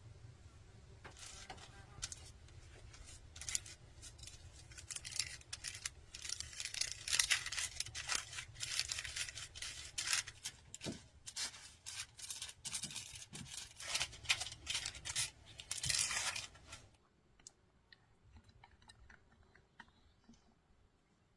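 Rapid, irregular crisp tearing and rustling sounds of food being handled and prepared, which stop abruptly near the end, leaving a few faint clicks.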